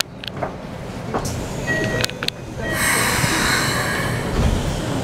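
Inside a Keikyu New 1000 series electric train as it comes to a stop at a station: clicks and rattles of the car, then about three seconds in a loud, sustained hiss that carries on to the end.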